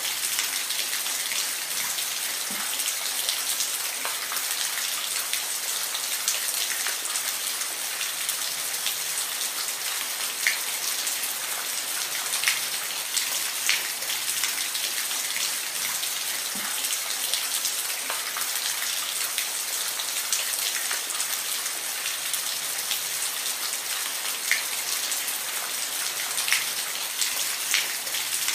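Steady rainfall: an even hiss of rain with a few louder individual drops ticking out here and there.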